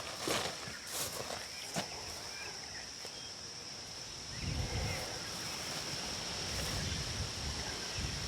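A few footsteps in the first two seconds over a steady, high insect drone, with a low rumbling on the microphone from about halfway through.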